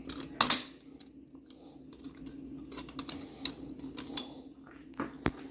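Screwdriver prying the metal retaining ring off a garbage disposal's sink mounting assembly: a sharp metallic click about half a second in, then scattered small metal clicks and scrapes.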